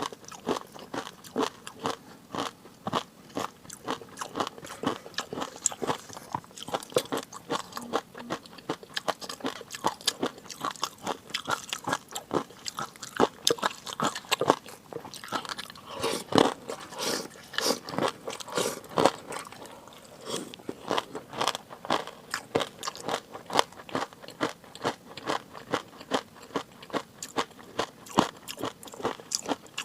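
Close-miked eating: rapid crunching and chewing, a dense run of small crisp clicks and crackles, several a second.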